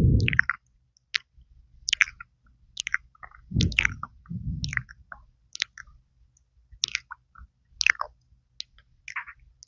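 Close-miked wet mouth sounds: lip pops, smacks and tongue clicks at irregular intervals, made with fish-like lip puffing. Low muffled puffs of breath hit the microphone right at the start and twice about three and a half to four and a half seconds in.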